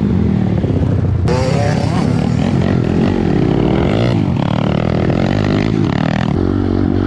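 Piranha 140 pit bike's single-cylinder four-stroke engine being ridden hard, its pitch rising and falling repeatedly as the throttle is opened and closed. From about a second in to about six seconds in it runs harsher and noisier.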